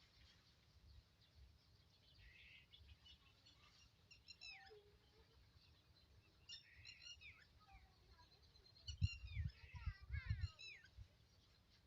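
Birds chirping in short bursts of quick falling notes, several times over a quiet background. About three quarters of the way through, low rumbling thumps come in briefly and are the loudest sound.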